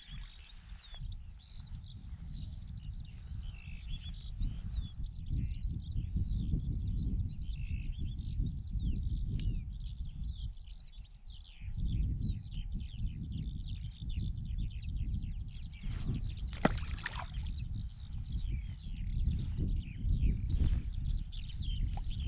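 Small birds chirping and singing, many short calls overlapping, over a low, uneven rumble that swells and fades. One sharp click about three-quarters of the way through.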